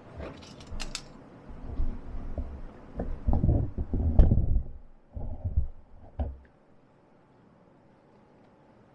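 Clicks, knocks and low thumps of things being handled and set down, dying away about six and a half seconds in. There is no steady welding crackle.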